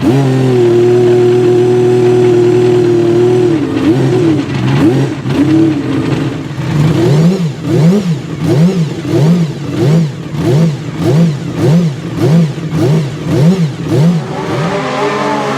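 Ferrari 333SP's V12 racing engine held at steady high revs for a few seconds, then blipped over and over, its revs rising and falling about every 0.7 s, before settling again near the end.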